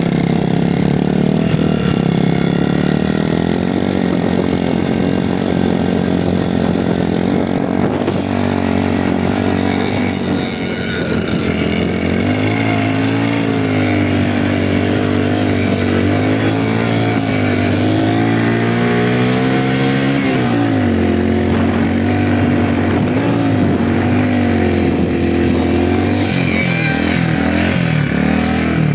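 Motorcycle engine running steadily under way, its note sliding down early on and then wavering up and down with the throttle from about midway.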